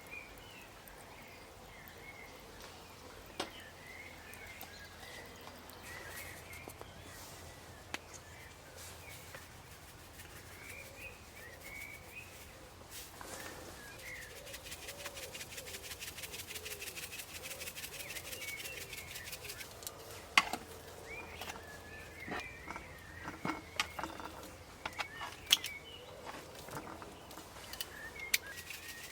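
Small woodland birds chirping and singing on and off, with a few sharp clicks and knocks in the second half.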